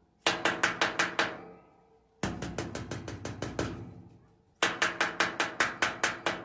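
Rapid knocking on a hard object in three quick runs of about seven to ten strikes each, each strike ringing briefly.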